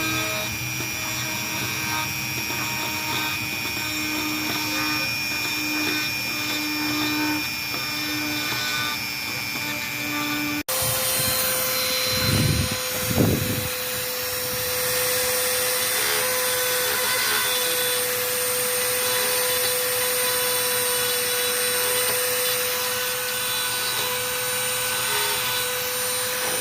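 Dremel rotary tool with an engraving bit running at high speed and cutting into a wooden spoon, a steady motor whine. It breaks off sharply about ten seconds in and comes back at a different pitch, with a couple of brief louder surges soon after.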